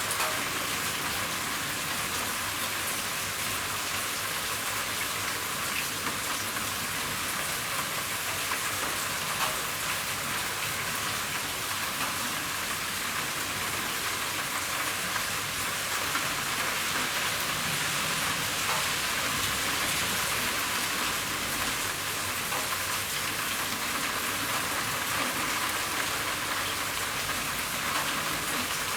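Steady rain falling on a roof: an even hiss with many individual drops ticking through it.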